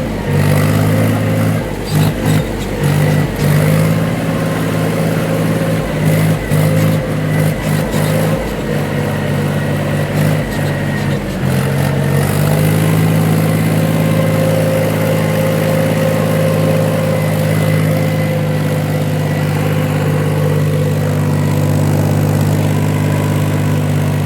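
Mahindra 275 DI tractor's diesel engine running steadily under load while wading through a river. Over the first dozen seconds the engine note is broken by repeated knocks and jolts, then it runs evenly.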